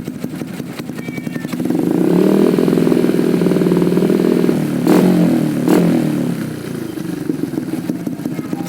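Yamaha New Jupiter MX motorcycle's 177cc single-cylinder four-stroke engine through a DX Generation Sphere Oval aftermarket racing exhaust. It runs low, is revved up and held for about three seconds, gives two sharp pops as the revs drop, then settles back toward idle.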